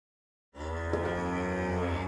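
A cow mooing: one long, low moo that starts about half a second in.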